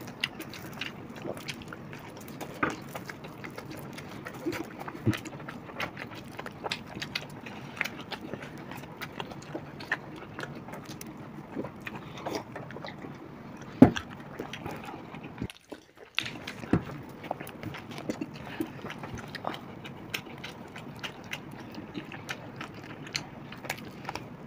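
Close-up eating sounds of people chewing chicken biryani eaten by hand: wet chewing, lip smacks and small scattered clicks, with one sharp knock about 14 seconds in.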